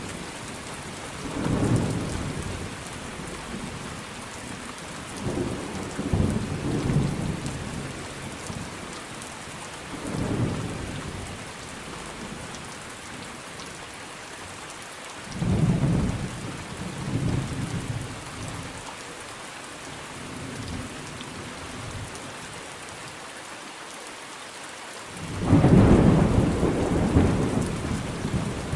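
Steady rain with rolling thunder: several low rumbles swell and fade every few seconds, and a louder, longer roll of thunder breaks about three-quarters of the way in.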